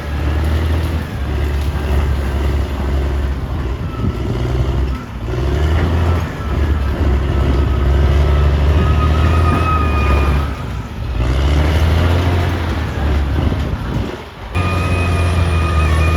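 Caterpillar D6R XL bulldozer's diesel engine running under load, its note rising and falling, with brief dips a few times. A thin high whine comes in over the engine about halfway through and again near the end.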